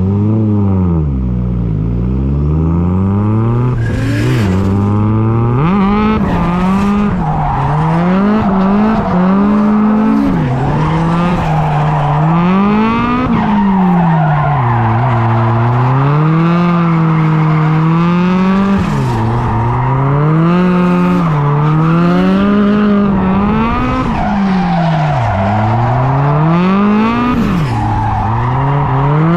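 A 1JZ inline-six engine in a drifting car, revved up and down over and over as the throttle is worked, with tyres squealing through the slides.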